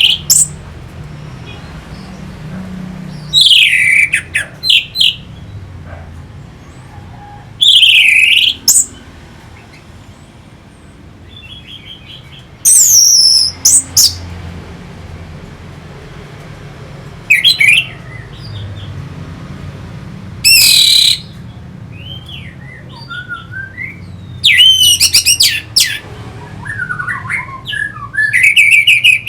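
Orange-headed thrush song: loud, varied whistled phrases of about a second each, coming every three to four seconds, turning into faster twittering near the end. A faint low hum runs underneath.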